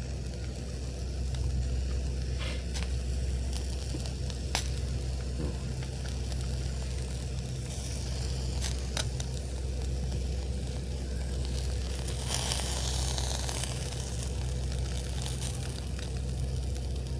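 Pacific saury sizzling on a grill over a wood campfire, with sharp crackles and pops from the fire now and then and a brief louder hiss about twelve seconds in. A steady low rumble runs underneath.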